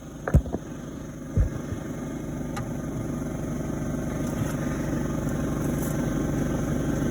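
A vehicle engine running, growing steadily louder, with a couple of sharp knocks in the first second and a half.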